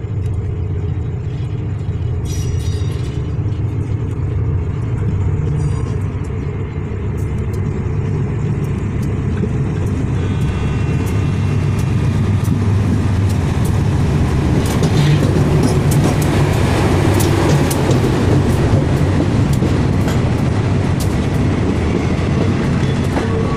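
Diesel locomotive hauling a passenger train past at trackside: the engine's low drone grows louder as it nears and passes, then the coaches roll by with a run of wheel clicks and knocks over the track.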